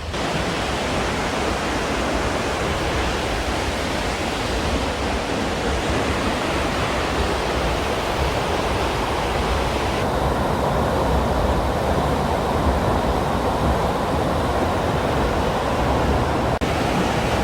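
Steady rushing of the 120-foot High Falls on the Pigeon River, a dense even noise of falling water. The higher hiss thins a little about ten seconds in.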